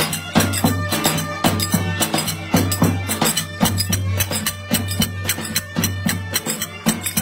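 Live folk dance music for a village wedding: quick, even drum strikes over a steady low bagpipe drone.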